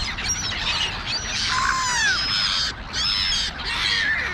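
Gulls and crows calling over one another: many high, overlapping cries, some sliding down in pitch.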